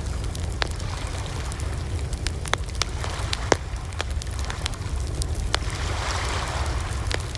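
Wood fire crackling, with sharp irregular pops and snaps over a steady low rumble. A brief hiss swells about six seconds in.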